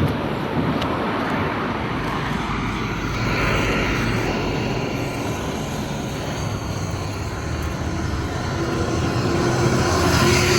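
Steady motor engine rumble in the open air, growing a little louder near the end, when a low steady hum joins it.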